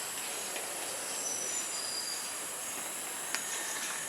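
Tropical forest ambience: a steady high insect drone, with a few short high bird whistles in the first half and one sharp click a little over three seconds in.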